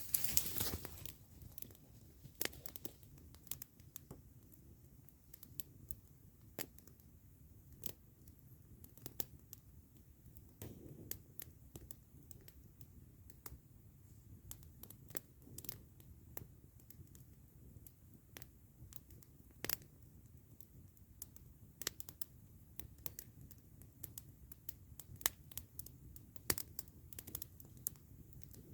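Wood campfire crackling: irregular sharp snaps and pops over a low steady rumble, with a louder burst of crackling in the first second.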